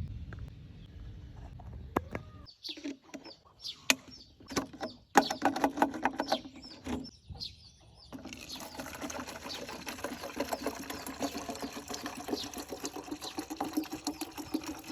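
Birds calling, chicken-like: short separate chirps and clucks, then from about eight seconds in a dense, fast chatter.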